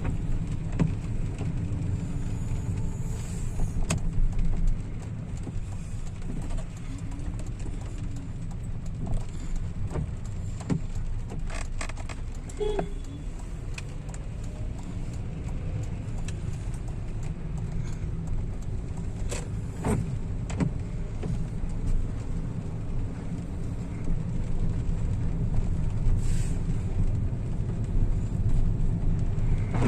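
Steady low rumble of a car driving in the rain, with scattered sharp clicks and taps.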